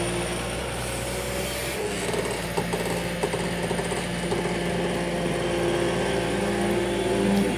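Diesel engine of earthmoving or farm machinery running steadily, its pitch rising a little near the end, with a few short knocks about two and a half and three seconds in.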